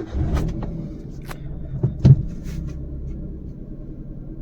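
Maruti Suzuki Alto 800's three-cylinder 800 cc petrol engine catching right at the start and settling into a steady idle, with a few sharp clicks and a louder knock about two seconds in.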